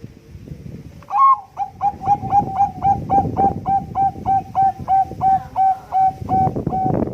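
Zebra dove (perkutut, of the Thai-bred 'Bangkok' line) singing: a fast, even series of short staccato coos, about four a second, starting about a second in after one slightly higher opening note.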